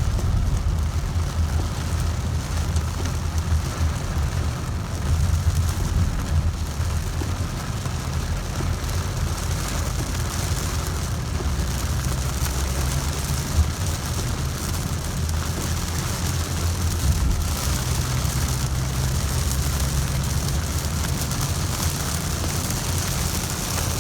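Heavy rain falling steadily, over a constant deep rumble that is the loudest part of the sound.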